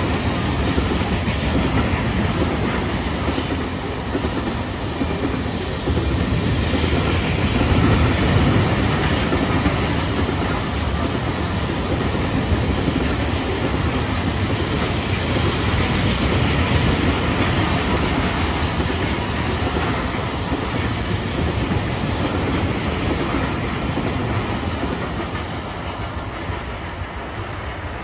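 BNSF freight train's cars rolling past at speed: a steady rumble of wheels on the rails, getting a little quieter near the end.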